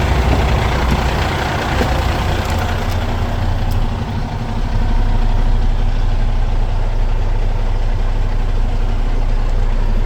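Cummins X15 15-litre six-cylinder diesel in a Kenworth T880 dump truck idling steadily, with a brief lull in level about four seconds in.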